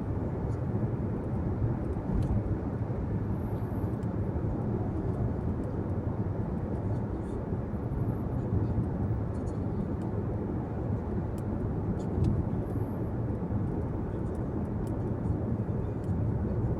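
A car driving on the road: a steady low rumble of tyre and engine noise.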